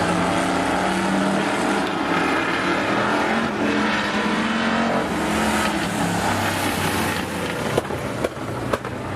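Several demo cars racing on an oval track, their engines running at speed. A few sharp knocks come near the end.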